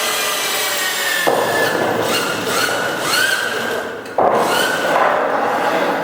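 Electric chain hoist running as it lifts a steel H-beam. Its motor runs steadily, with a whine that rises in pitch several times, and it cuts off briefly about four seconds in before starting again.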